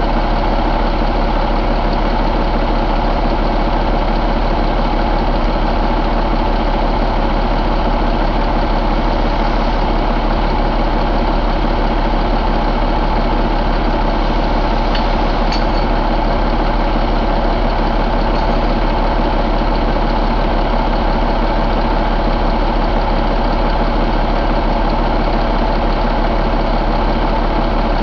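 2016 Cummins ISX15 inline-six diesel engine idling steadily.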